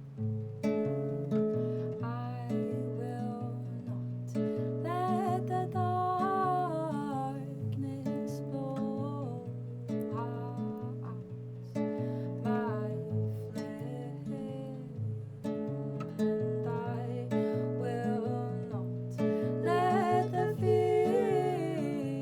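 Acoustic guitar playing a repeated picked and strummed pattern for a song intro, with a higher melody line above it that slides and wavers in pitch.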